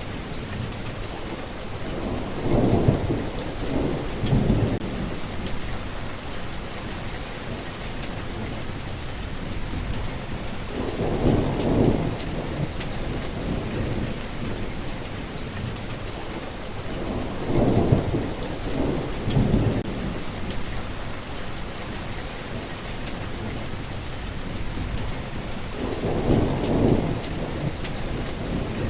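Steady heavy rain, with thunder rumbling four times, each roll swelling and fading over two or three seconds.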